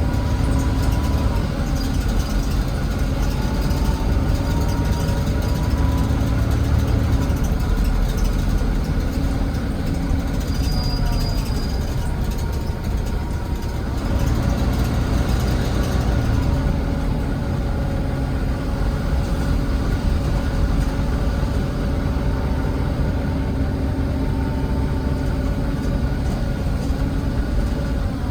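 Volvo B9TL double-decker bus's Volvo D9B diesel engine running under way, heard on board from the back seat, with a whine that rises and falls as the bus changes speed. The uploader counts this batch's sound among the weird noises, whether a sign of wear or of recent mechanical work.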